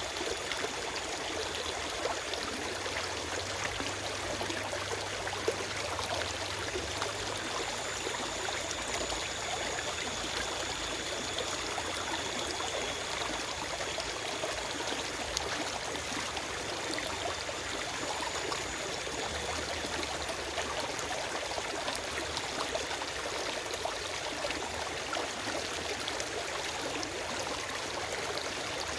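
Forest stream flowing over rocks: a steady rushing and trickling of water with no birdsong.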